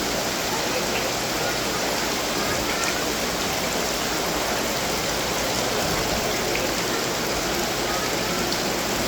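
Steady splashing of running water from garden water fountains, falling water pouring into their basins.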